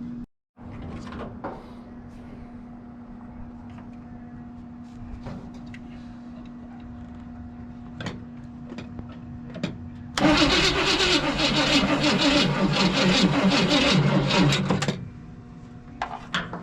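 Old Chevy engine being cranked over by its starter motor for about five seconds, starting about ten seconds in and stopping abruptly, without the engine firing; fuel is still being drawn up to the fuel pump. Before that there are only faint clicks and knocks.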